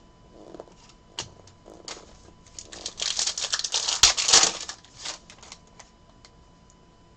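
Trading cards and their packaging being handled at a table: a few sharp clicks, then about two seconds of dense crackling rustle, loudest about four seconds in, and a few more clicks.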